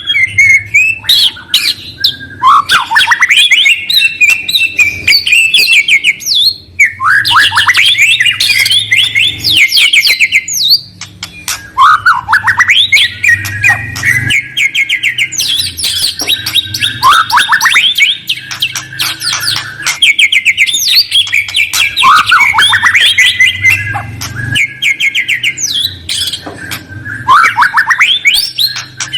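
Songbird song from a bird-lure recording: repeated bouts of rapid chirps and rising trills a few seconds long, separated by short pauses, over a faint low hum.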